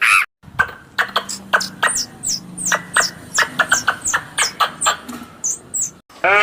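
A small animal's rapid series of short, sharp chirping calls, many of them sliding down in pitch, with clicks in between.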